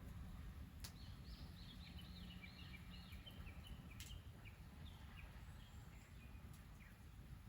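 Faint songbird singing: a run of quick, repeated chirping notes lasting a few seconds, over a low rumble, with a few sharp clicks.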